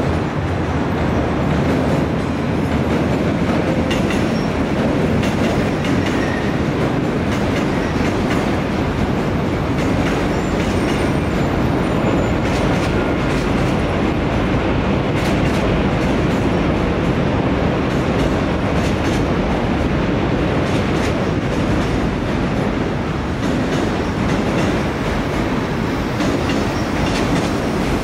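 Stainless-steel commuter electric train passing close by, a steady loud rumble of the cars rolling. From about halfway through, the wheels clack repeatedly over rail joints.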